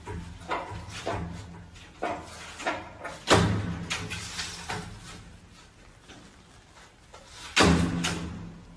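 A series of irregular knocks and thumps, with two louder bangs about three seconds and seven and a half seconds in.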